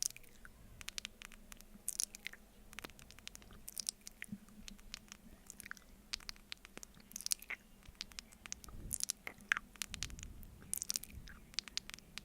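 Close-miked, sticky wet mouth sounds of eating honey off a spoon: irregular smacks and clicks, several a second.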